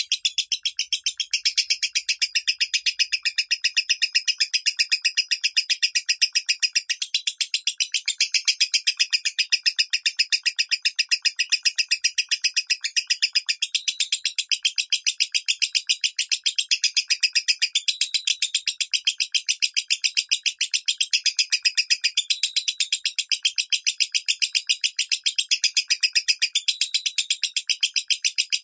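Lovebird giving its long, unbroken 'minor' chatter: rapid, evenly repeated high chirps, several a second, without a pause.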